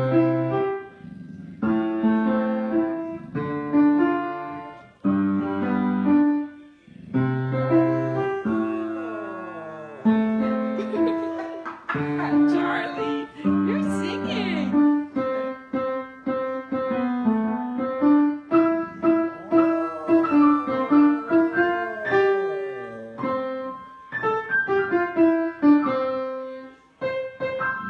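Piano played in held chords while a dog howls along in wavering, sliding notes, most strongly in the middle of the passage.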